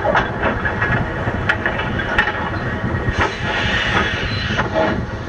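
Steam locomotive and rail cars clanking, with a few sharp metallic clicks, then a steady hiss of steam starting about three seconds in.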